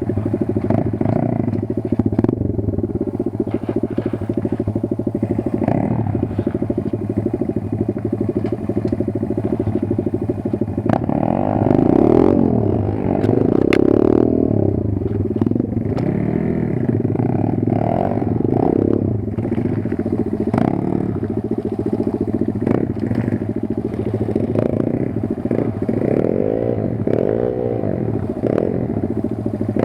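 Kayo 140 pit bike's single-cylinder engine running throughout, revved up and down repeatedly from about a third of the way in, with scattered clattering knocks.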